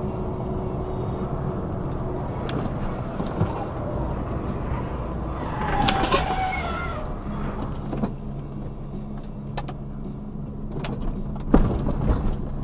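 Steady rumble of a vehicle on the road, heard from inside the cab. About six seconds in there is a brief sound whose pitch bends up and down, and a few sharp knocks follow, the loudest near the end.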